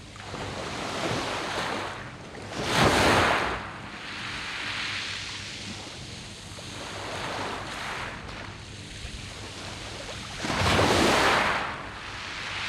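Sea waves breaking and washing on a beach of smooth round pebbles, two larger waves crashing about three seconds in and again near the end, with smaller washes between.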